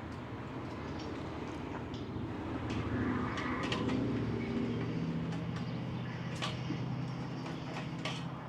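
Titanium exhaust pipe being forced onto a tight slip joint: a steady metal-on-metal grinding and scraping with scattered clicks. It swells in the middle and eases near the end.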